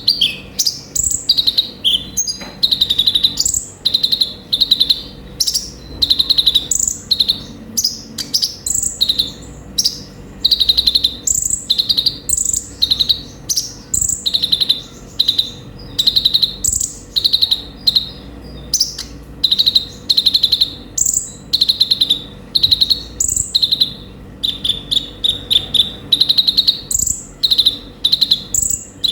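Konin (kolibri ninja) sunbird singing: a nonstop run of short, high, fast chirping phrases, one after another with only brief gaps.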